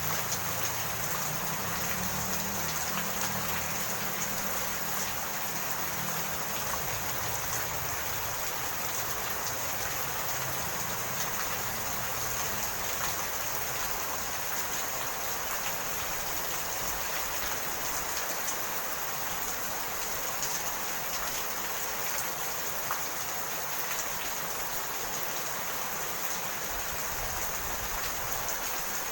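Steady rain falling, an even hiss with scattered faint drop ticks; a low rumble dies away over the first few seconds.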